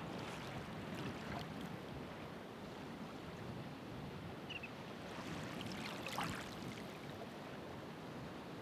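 Ocean waves washing onto the shore: a steady rush of surf, with stronger surges near the start and again about six seconds in.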